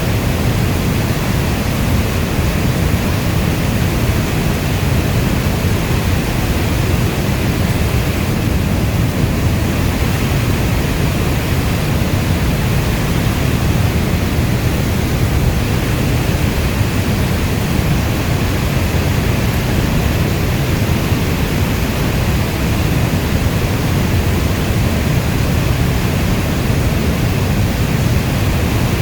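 Steady heavy rainfall: a dense, even rush of noise weighted toward the low end, with no separate drops or thunder standing out.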